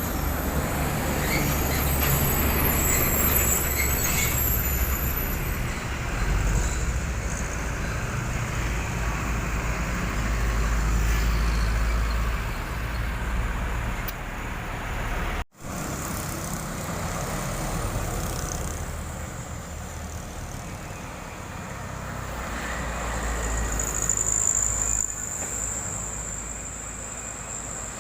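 Heavily loaded trucks' diesel engines running under load in passing road traffic, with a brief cut to silence about halfway through. A high, steady squeal comes in near the end.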